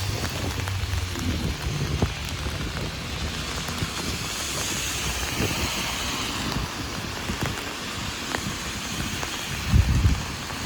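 Heavy rain falling on an umbrella: a steady hiss with scattered drop ticks. A low rumble runs through the first two seconds, and a few low thumps come shortly before the end, the loudest sounds in the stretch.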